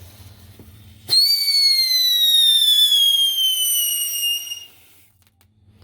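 A whistling firework going off: a sudden start about a second in, then one loud whistle that falls slowly in pitch for about three and a half seconds before it stops.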